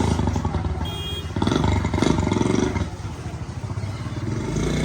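A motor vehicle engine running close by, its rapid firing pulses swelling and dipping in loudness.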